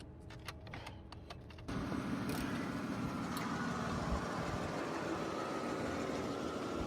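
A few light clicks, then a motor vehicle engine comes in suddenly a little under two seconds in and runs steadily.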